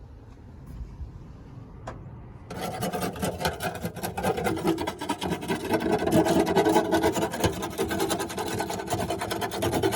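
Rapid, continuous scraping and rasping that starts about two and a half seconds in: old insulation and deadening being scraped out of a stripped vehicle interior.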